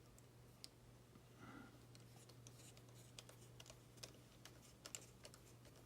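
Faint scattered clicks and taps of small plastic model parts and a screwdriver being handled, more of them in the second half, over a low steady hum.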